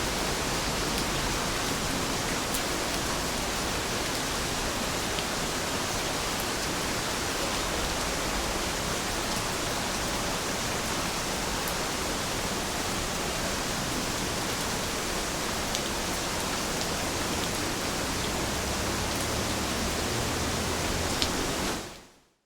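Steady rain falling, an even hiss with a few faint drop ticks, fading out near the end.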